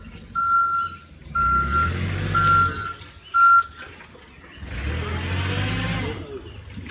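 Vehicle reversing alarm beeping about once a second, four beeps, then stopping a little over halfway through, over the low rumble of a truck engine that swells up twice.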